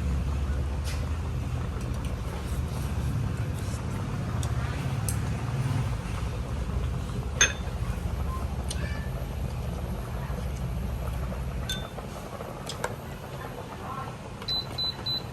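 Scattered clinks and taps of tableware over a steady low hum that dies away about twelve seconds in; near the end, four quick high electronic beeps.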